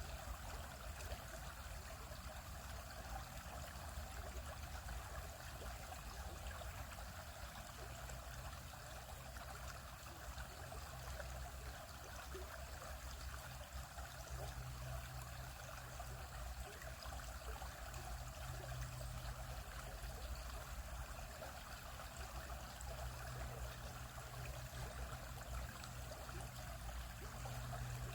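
Stream flowing over rocks: a steady trickling, splashing water sound, with a low rumble underneath.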